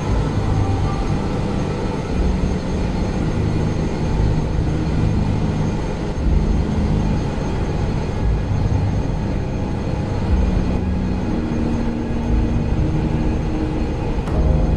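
Ship's engine room machinery running: a loud, steady drone that is strongest low down, with a few faint steady tones above it.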